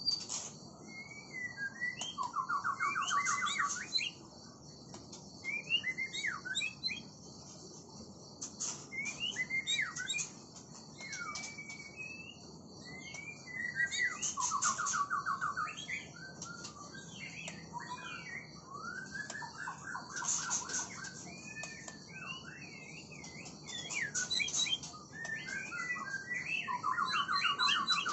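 White-rumped shama (murai batu) singing a long, varied song of rising and falling whistled phrases, broken four times by a short rattling trill.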